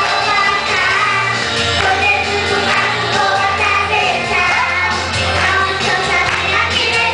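Children's choir singing a gospel hymn in Portuguese over backing music with a steady bass line.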